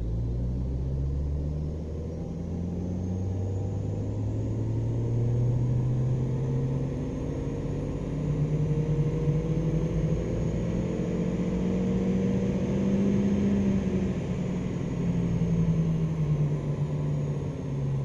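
Car engine pulling in fourth gear against a chassis dyno's load during a power run, revs climbing steadily for about twelve seconds, then dropping back in the last few seconds as the run ends. A faint high whine rises and falls with it.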